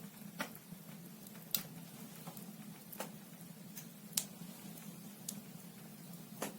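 Wood fire burning in a fireplace, the logs crackling with sharp pops at irregular intervals over a low steady hum.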